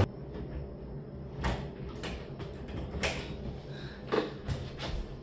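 A top-load washing machine's steady hum cuts off abruptly as the machine stops with its lid open, leaving a few scattered light clicks and knocks.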